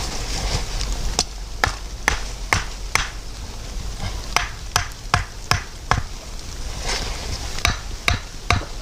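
Rhythmic chopping, sharp strikes about two a second, each with a short ring. They come in three runs with brief pauses between them.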